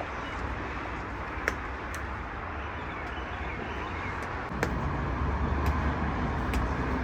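Steady low rumble of outdoor background noise, like traffic, with a few sharp clicks; it gets louder about four and a half seconds in.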